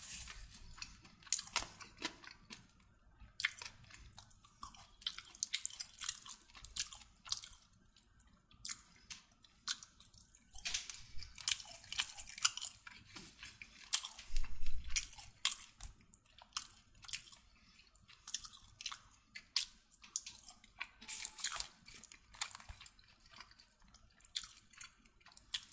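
A person chewing and eating food: irregular wet mouth clicks and small crunches, a little louder around the middle.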